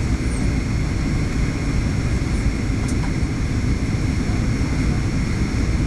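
Steady cabin noise of a Boeing 737-800 in flight, the rumble of its CFM56 turbofans and airflow heard from inside the cabin.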